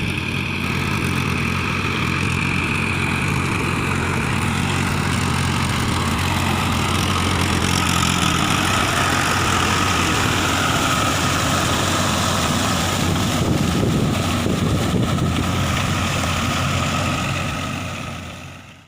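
Mahindra Arjun Ultra-1 555 DI tractor's diesel engine running steadily, fading out near the end.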